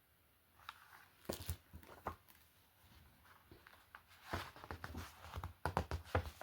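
Paper handling as a book's pages are turned: a scatter of soft rustles and taps, in two clusters about a second in and again from about four seconds in.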